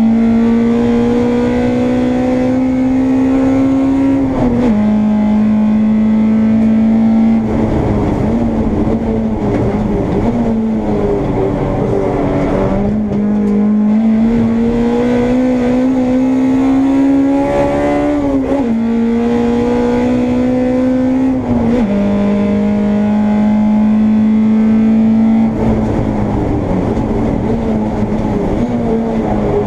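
Honda Integra race car's engine heard from inside the car at high revs. The note climbs slowly through each gear and drops sharply at upshifts about four seconds in, about eighteen seconds in and about twenty-two seconds in, with a rougher, unsteady stretch where the revs fall and rise from about seven to thirteen seconds in.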